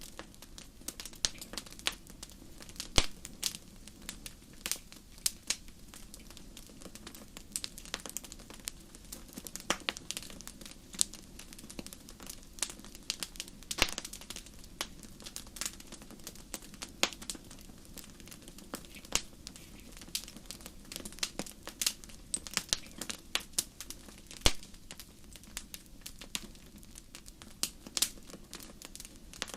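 Wood fire burning in a fireplace, crackling with frequent sharp pops at irregular intervals over a low steady hiss of the flames.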